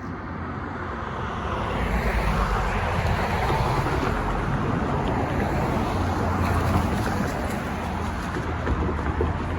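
Diesel locomotives of a BNSF freight train, GE ES44C4 and C44-9W units, running past with a steady low engine rumble and a broad rushing noise. The sound swells over the first two seconds and then holds loud.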